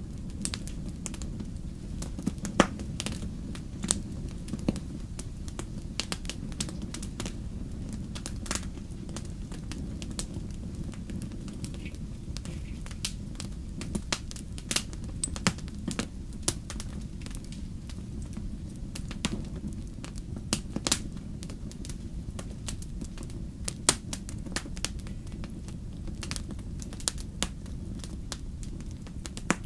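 Wood campfire burning and crackling: sharp, irregular pops and snaps over a steady low rumble of the flames.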